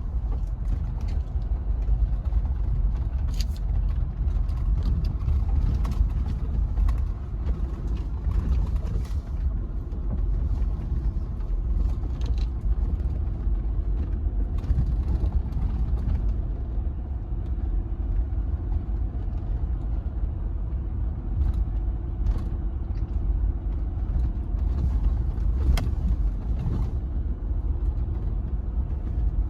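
Jeep Gladiator's engine running with a steady low rumble, a faint hum above it and scattered light clicks.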